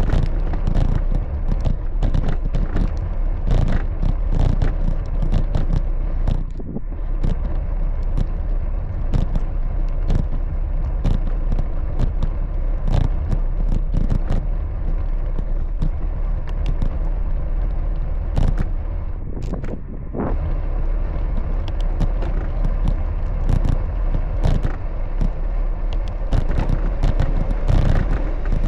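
Riding noise from a bicycle: wind buffeting the microphone over a steady low rumble, broken by many sharp knocks and rattles from bumps in the road.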